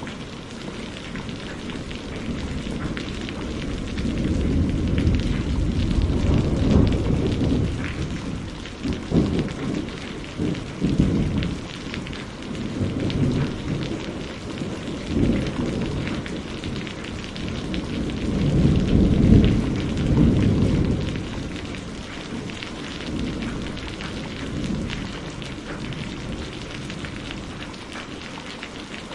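Steady rainfall with rolling thunder. Low rumbles swell and fade several times, crackling a few seconds in and loudest about two-thirds through, then dying away, leaving the rain alone near the end.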